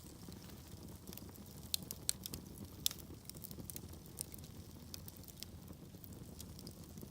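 Wood logs burning in a fireplace: a soft, steady rumble of flames under frequent sharp crackles and pops, with a cluster of louder pops about two to three seconds in.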